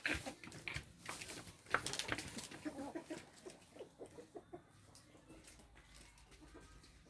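Chickens clucking in short low calls, with a run of sharp clicks and knocks in the first three seconds, the loudest a little under two seconds in; the sounds thin out and turn faint in the second half.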